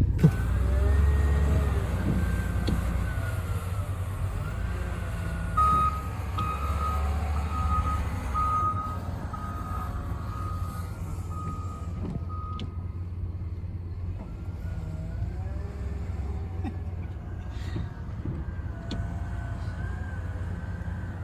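A heavy machine's engine running with a steady low rumble, its pitch wavering, while its reversing alarm beeps about a dozen times, roughly one and a half beeps a second, from about a quarter of the way in to past the middle. The machine is moving in to load sand into a pickup's bed.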